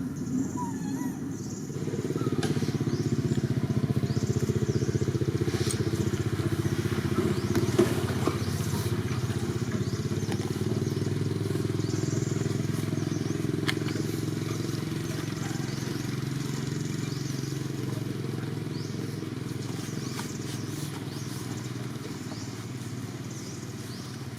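An engine running steadily, louder from about two seconds in and then slowly fading.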